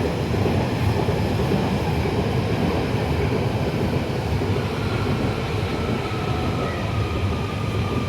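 A train running through the platform with a steady low rumble and rattle, and a faint whine slowly falling in pitch over the last few seconds.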